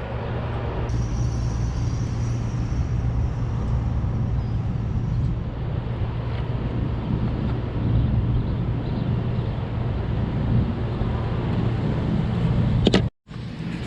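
A steady low rumble with a hiss over it, unchanging until it cuts off abruptly near the end.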